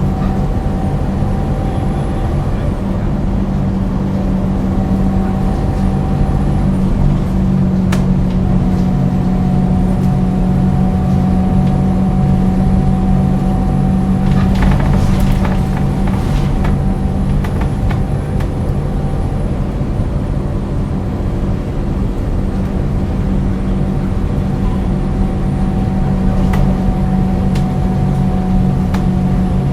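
Scania DC9 9-litre six-cylinder diesel of a 2001 Scania L94UB bus running at a steady engine speed, a deep even drone with a fainter steady whine above it. A few short clicks and rattles come through, most around the middle.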